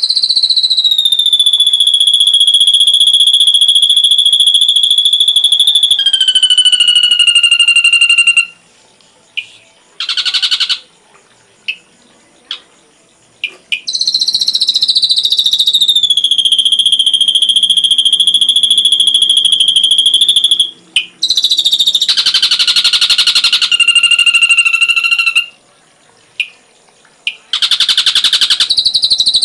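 Recorded ashy drongo song: long, steady high whistles of several seconds each, each dipping a little at its start, broken by short chirps and a harsh buzzy trill about two thirds of the way in. Several of the whistled notes are even and sustained enough to sound like an electronic alarm tone.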